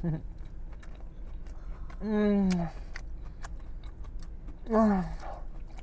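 A man chewing a mouthful of sandwich, with many small wet clicks and smacks of the mouth. Two closed-mouth 'mmm' hums of enjoyment fall in pitch, one about two seconds in and a shorter one near the end.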